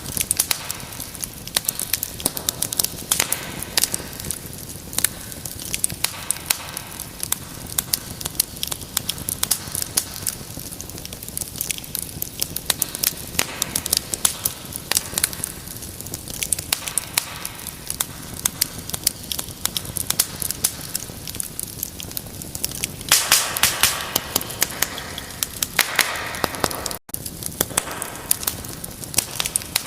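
A fire crackling in a fireplace: a steady soft hiss of flame with many sharp pops and snaps, thickening into a louder flurry of crackles about three-quarters of the way through. The sound cuts out for an instant shortly after.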